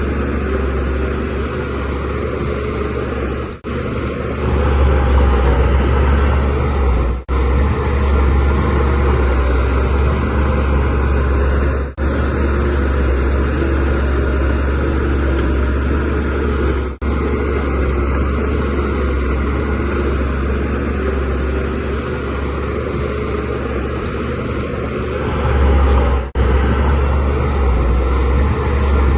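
Shantui DH17C3Pro bulldozer's diesel engine running steadily with a deep low drone, swelling a little about five seconds in and again near the end. The sound drops out for an instant five times.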